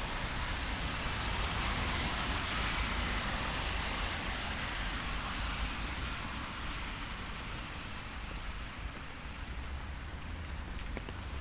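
Rain falling on a city street, with the hiss of traffic on wet asphalt swelling in the first few seconds and then fading away.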